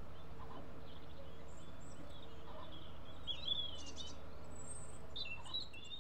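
Small birds chirping and twittering in short bursts over a steady low background hum.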